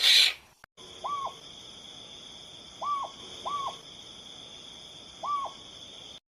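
An owl hooting four short, single hoots over a steady high-pitched background drone, after a brief loud rush of noise at the very start.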